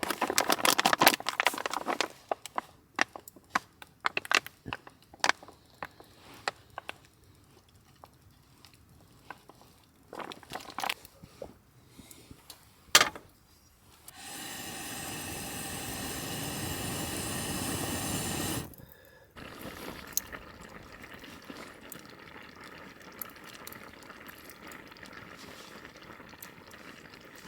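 Metal cookware and utensils clinking, with scattered single clicks. About fourteen seconds in, liquid is poured into a vessel for about four seconds, growing louder as it fills and stopping abruptly, then a softer steady hiss.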